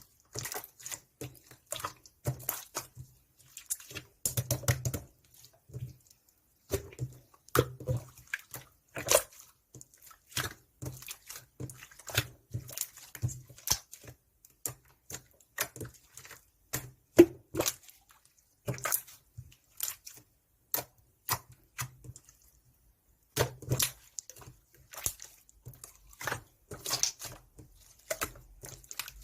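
Light-orange slime being squeezed and worked by hand, giving quick irregular sticky clicks and small air-bubble pops, with a short pause about three-quarters of the way through.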